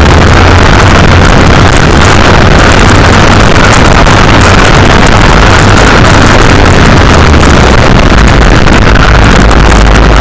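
Mini motocross bike engine running, loud and steady, with no clear revs or breaks.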